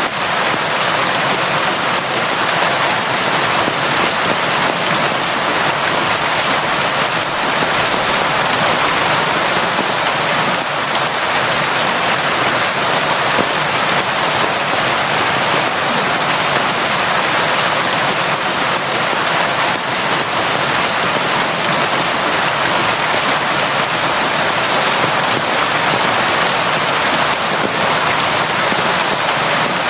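Steady, constant heavy rain falling, a dense even hiss of drops hitting surfaces with no breaks or gusts.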